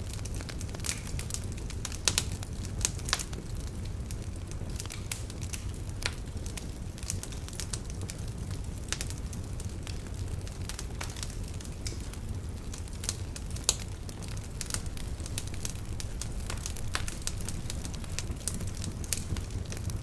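Wood fire burning in a fireplace: a steady low rumble of the flames with irregular sharp crackles and pops from the burning logs, a few louder snaps about two, three and fourteen seconds in.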